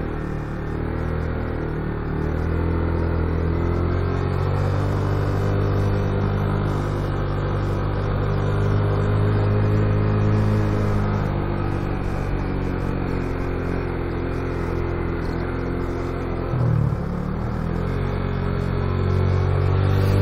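Motorcycle engine pulling up a steep climb, its note rising and falling slowly, with a brief change in the note near the end.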